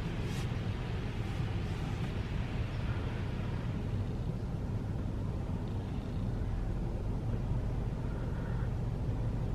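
Steady low rumble heard from inside a car's cabin as it rides through an automatic tunnel car wash, with no distinct spray or brush strikes standing out.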